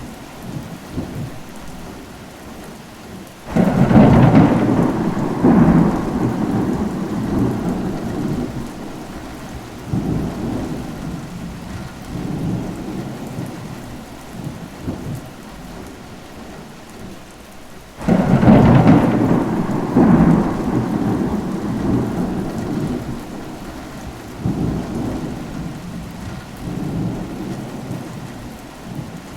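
Steady rain with two long rolls of thunder, one a few seconds in and one just past the middle. Each starts suddenly and rumbles away over several seconds, with smaller rumbles after.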